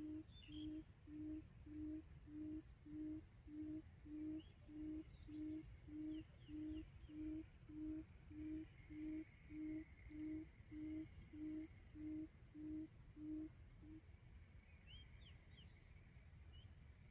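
Decoy quail calling: a low hoot repeated evenly, about one and a half times a second, that stops a few seconds before the end.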